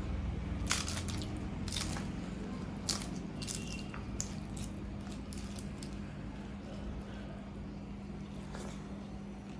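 Close-miked eating: wet, squishy chewing with a cluster of crisp bites and crackles in the first few seconds, over a steady low hum.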